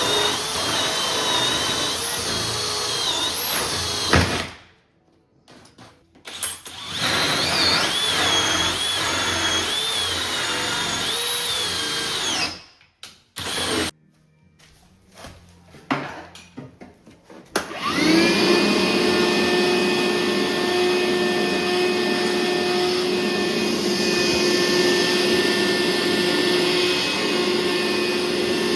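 Handheld power tool running under changing load in several short stretches, broken off by sudden cuts. Later a steadier motor takes over with a constant whine.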